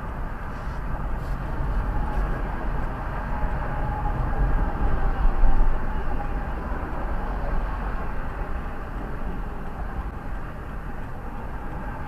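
Steady rumble of highway traffic going past a stopped car. A louder vehicle passes about five seconds in, with a faint wavering whine.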